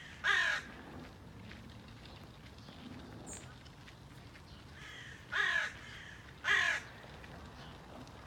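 A bird calling: one loud call right at the start, then two more about a second apart past the middle, over a low steady outdoor background.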